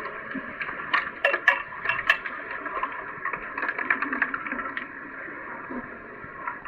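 Pool water heard underwater during underwater hockey play: a steady hiss of water and bubbles with clusters of sharp clicks and knocks, about one to two seconds in and again around three and a half to four and a half seconds in.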